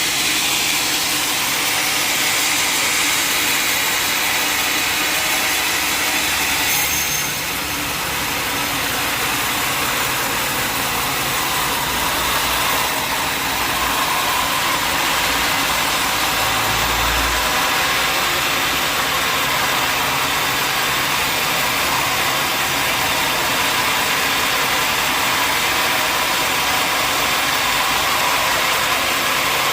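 Sawmill machinery running steadily: a loud, continuous mechanical noise with no pauses, changing slightly in tone about seven seconds in.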